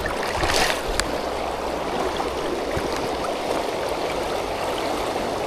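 Fast-flowing river water rushing steadily over a stony bed, with a faint click about a second in.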